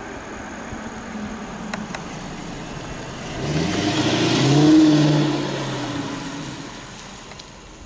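A 2009 Dodge Challenger R/T's 5.7-litre Hemi V8 driving past: the exhaust note builds and climbs in pitch as the car approaches, is loudest about five seconds in, then drops in pitch and fades as it drives away.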